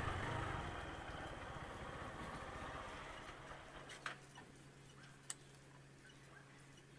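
Small motorcycle engine running at low revs as the bike rolls in and slows, fading over about three seconds. A steady faint hum follows, with two short clicks.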